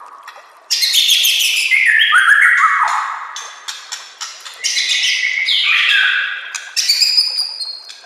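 White-rumped shama (murai batu) singing: loud, rapid phrases of high notes that step downward in pitch, starting about a second in, with short pauses around the middle and near the end.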